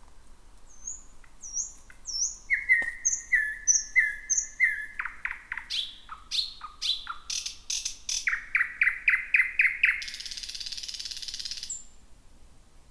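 Thrush nightingale singing one long song phrase: high repeated whistles, then lower repeated notes building into fast, loud strokes, ending in a dry rattle of about a second and a half that cuts off suddenly.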